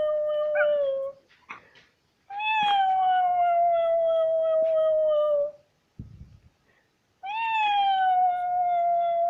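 A pet dog howling in long, drawn-out calls. The first howl trails off about a second in, a full howl follows, and a third begins near the end. Each call rises briefly, then slides slowly down in pitch.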